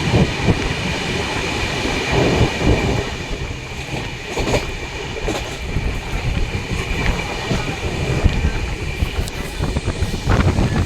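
Passenger train running along the track, heard from inside the carriage: a steady rumble of wheels and coach, with a thin high whine running through it. There are a few sharp knocks, about four seconds and ten seconds in.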